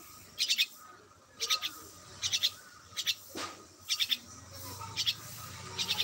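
A bird chirping: short clusters of quick, high notes, repeated about once a second.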